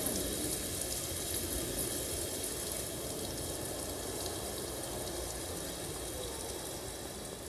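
Steady rushing rain sound, like a downpour, slowly fading.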